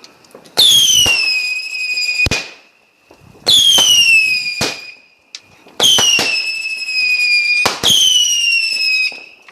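Whistling fireworks going off one after another: four shrill whistles, each dropping a little in pitch and then holding for a second or two, with sharp bangs among them, the loudest about two seconds in.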